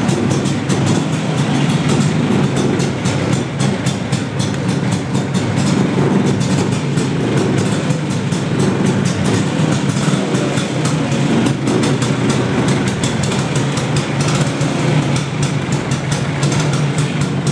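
Vespa P200's single-cylinder two-stroke engine running steadily, a rapid even pulsing from the motor and exhaust, in good running order after a full restoration.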